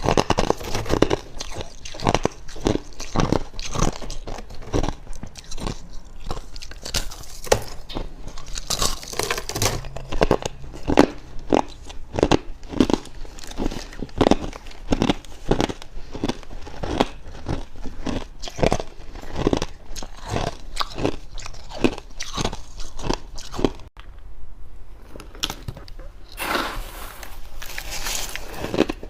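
Close-miked chewing of dry, fluffy freezer frost: rapid, repeated crunches, with a short lull about four-fifths of the way through, then a louder run of crunching.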